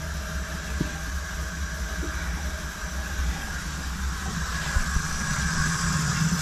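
Gas water heater burner firing, a steady rushing noise over a low hum, that cuts off abruptly at the end.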